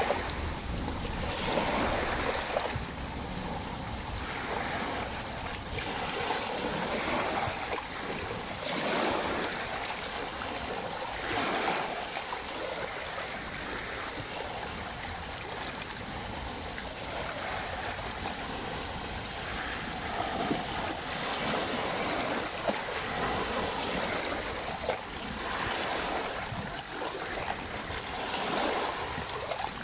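Lake waves washing in, rising and falling in irregular swells every few seconds, with some wind rumble on the microphone.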